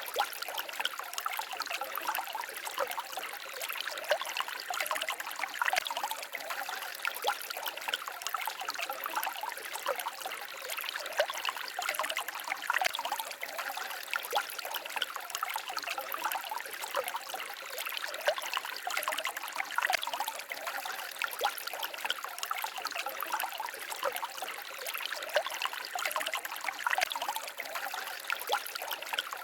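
Small stream babbling and trickling over stones, a steady stream of fine splashes and gurgles with little deep rumble.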